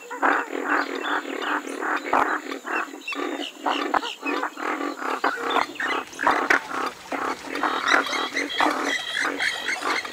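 Western swamphen calling: a rapid, unbroken run of short, harsh calls, about three or four a second.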